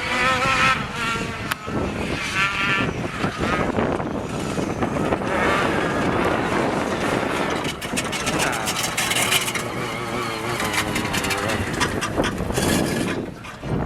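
Rally car engine revving hard and rising and falling through gear changes as it passes at speed, with a run of sharp crackles about eight seconds in.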